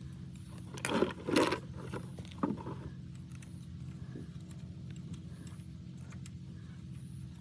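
Metal parts clinking and clattering a few times in the first three seconds, over a steady low mechanical hum.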